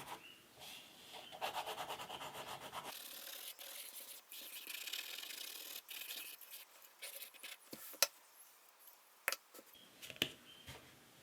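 Pencil scratching on paper, shading with quick back-and-forth strokes for about three seconds, then lighter, scattered strokes. A few sharp taps come later on.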